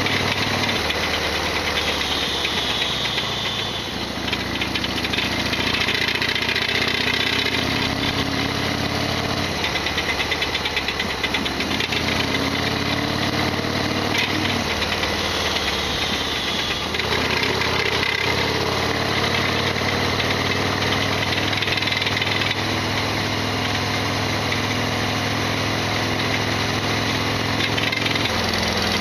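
Harley-Davidson XL1200R Sportster's air-cooled V-twin running under way, the engine note dipping and picking up again several times with the throttle. A rattly mechanical clatter rides on top of the engine, a loud abnormal noise that this bike always makes.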